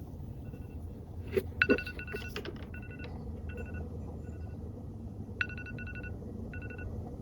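Electronic beeping, like a phone or alarm tone: short beeps on one high pitch repeating about every half second, breaking into fast pulsed runs about two seconds in and again about five and a half seconds in. Two sharp clicks come about a second and a half in, over a steady low hum.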